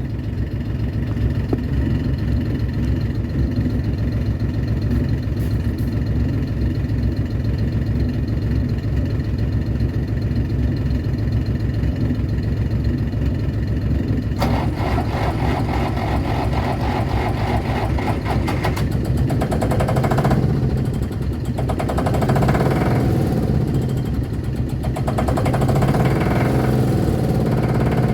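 Diesel engine idling steadily; about halfway through a second diesel engine starts, adding a fast knocking beat, and then runs with its speed rising and falling, a cold, smoky start.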